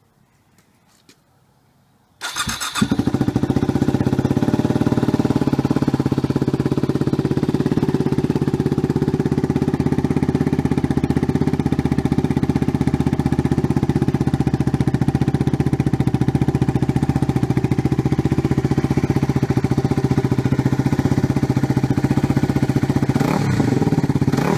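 Yamaha WR250R's 250 cc single-cylinder four-stroke engine starting about two seconds in and then idling loud and steady through the stock exhaust can with its baffle removed. Its pitch briefly rises and falls near the end.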